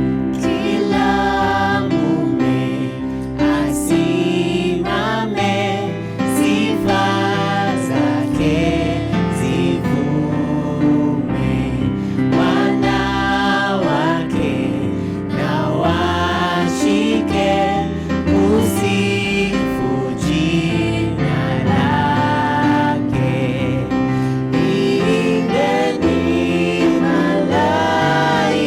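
Gospel music: a choir singing a song over steady bass accompaniment.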